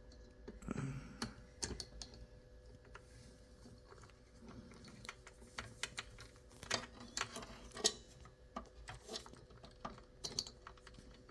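Irregular light clicks and taps of a hand tool and plastic parts being worked inside a desktop computer case while fitting a CPU fan.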